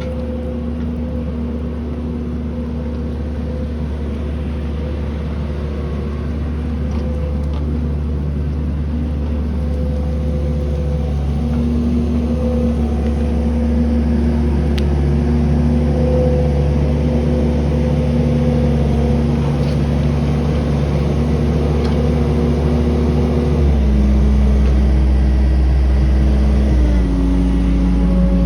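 1968 Chevrolet K20 pickup's engine running steadily under load as the truck is driven. Its note changes twice near the end.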